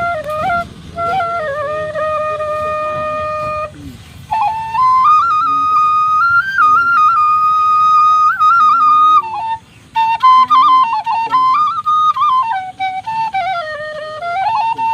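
Background music: a solo flute melody of long held notes with quick ornamental turns, breaking off briefly about two-thirds of the way through.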